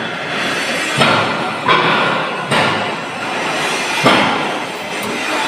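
Arc welding: a steady crackling hiss from the welding arc, with several sudden sharp jumps where the arc flares or is struck again.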